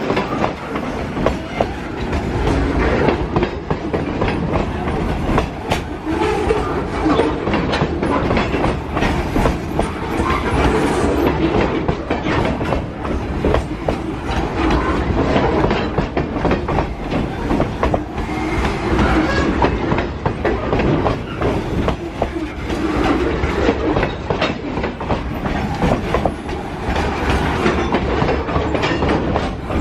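Train rolling past, its wheels clicking steadily over the rail joints over a continuous rumble.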